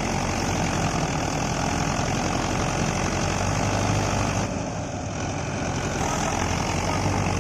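Large farm-machine diesel engine running steadily, easing off slightly for a moment about four and a half seconds in.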